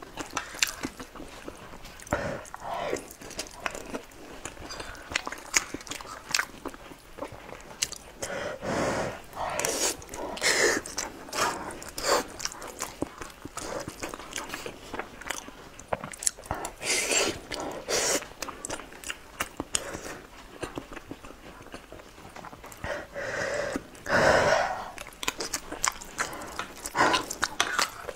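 Close-miked wet chewing and mouth sounds of someone eating soft sticky rice from a spoon: many small, sharp clicks and smacks, with a few longer noisy mouthfuls about a second each.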